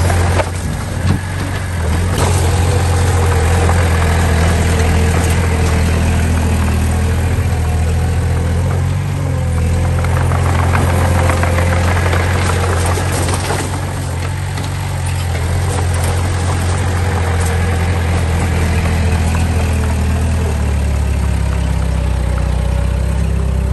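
Diesel engine of heavy earthmoving machinery running steadily with a low, even rumble.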